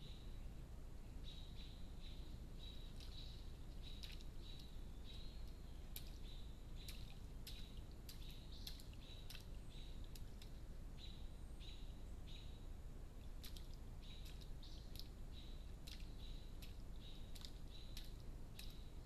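A small bird calling in short, high chirps repeated two or three times a second, in runs that keep going, with scattered sharp clicks over a faint steady hiss.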